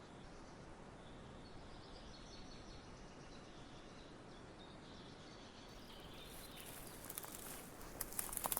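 Outdoor nature ambience: a soft steady hiss with faint, scattered high bird chirps. About two-thirds of the way in, a run of dry crackling rustles sets in and grows loudest near the end.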